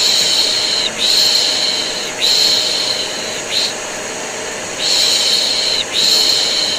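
Repeated long 'shhh' shushes, each lasting about a second with short gaps, over the steady drone of a running vacuum cleaner with a constant whine. It is a looped white-noise track for soothing colicky babies to sleep.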